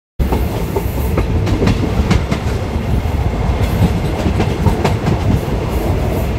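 Diesel-hauled passenger train running on the rails: a steady low rumble with the clickety-clack of wheels over rail joints. It cuts in abruptly just after the start.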